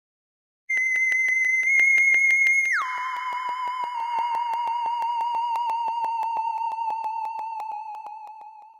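Synthesized iPad ringtone: a high electronic tone pulsing rapidly, which slides down about an octave a couple of seconds in. It carries on wavering at the lower pitch and fades out near the end.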